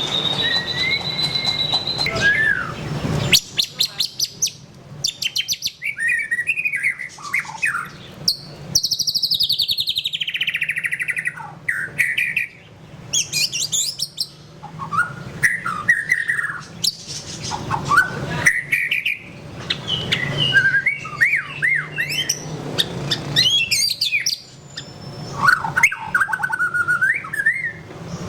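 White-rumped shama (murai batu) singing a long, varied song of whistled phrases, rising and falling glides and rapid rattling trills, with a long falling buzzy phrase about a third of the way in.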